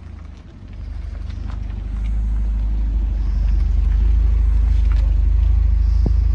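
Deep, steady low rumble of a car on the move, growing louder over the first two seconds and then holding steady, with a single short click near the end.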